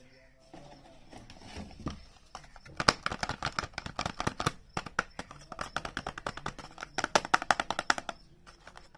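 Hands unpacking soap packaging. Faint scratching at first, then from about three seconds in a dense, quick run of crisp ticks and crinkles that stops about a second before the end.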